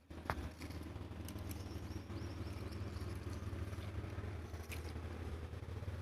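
Mini tractor's small engine running steadily with an even low hum. A few faint ticks and clicks sound over it.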